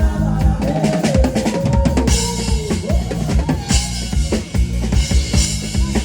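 A live band playing a song, with the drum kit's bass drum and snare to the fore over a steady bass line. A melody line weaves above.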